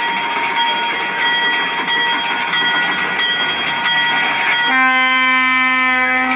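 Railcar wheels squealing on the rails as the Alco S6 switcher moves its cars along street track. Near the end the switcher sounds one steady horn blast, held about a second and a half.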